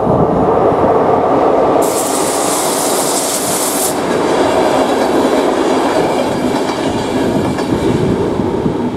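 Passenger train passing over a level crossing, its wheels rumbling steadily on the rails. A sharp high-pitched hiss rises from the passing train about two seconds in and cuts off about two seconds later.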